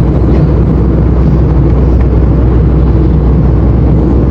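Airliner cabin noise: a loud, steady low rumble of the plane's engines and airflow heard from inside the cabin.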